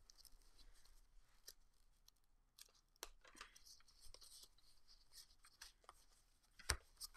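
Faint clicks and light rustling of trading cards being handled and flipped through a pack, with a sharper click near the end.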